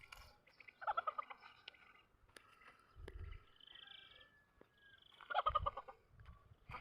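Faint calls of domestic fowl: a short burst of rapid, rattling calls about a second in and another about five seconds in, with thinner, higher calls in between.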